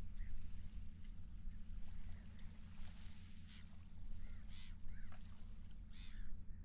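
Seagulls calling over a harbor, several short cries in a row through the middle of the stretch, over a steady low rumble of wind and water.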